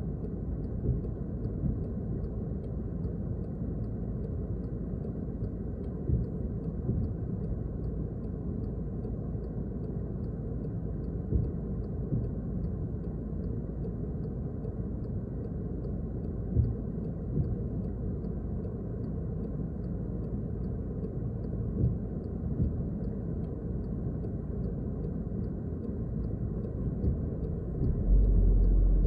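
Steady low rumble of a car's tyres and engine heard from inside the cabin while driving, with faint, even ticking. The rumble grows louder and deeper near the end.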